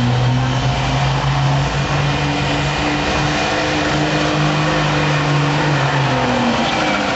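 Diesel truck engine running hard at high revs under load, pulling a weight sled, holding a nearly steady pitch; the revs fall off about six seconds in.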